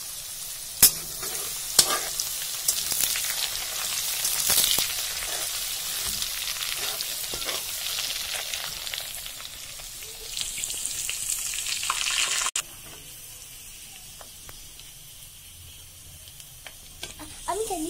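Ground spice paste and dried red chillies sizzling in hot oil in a metal kadai, stirred with a spatula, with two sharp clacks against the pan about one and two seconds in. About two-thirds of the way through, the sizzle cuts abruptly to a quieter level.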